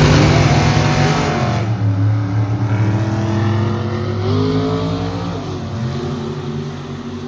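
Drag race car launching and accelerating away down the strip. The engine note climbs, drops at gear changes and climbs again, fading steadily as the car gets farther off.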